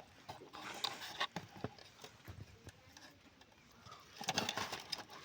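Light clicks and taps of hands handling an amplifier board and its connecting wires. A quicker flurry of clicks comes about four seconds in.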